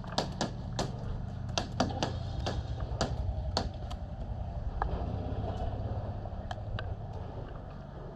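Airsoft gunfire: irregular sharp snaps of shots and BB hits, many in the first four seconds and only a few after, over a steady low hum.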